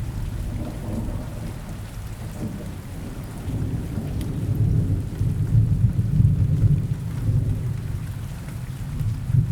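Steady rain with a low rolling rumble of thunder that swells about halfway through and again near the end.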